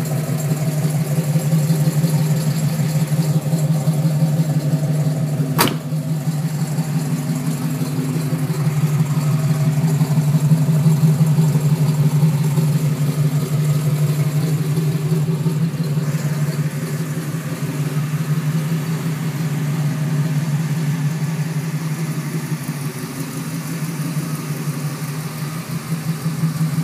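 Rebuilt Oldsmobile 455 V8 idling steadily through Hooker headers and dual 3-inch Magnaflow exhaust. There is a single sharp click about six seconds in.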